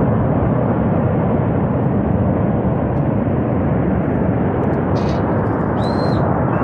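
Loud, steady rumbling roar of a glacier-burst flash flood surging down the valley. A faint high whistle sounds near the end.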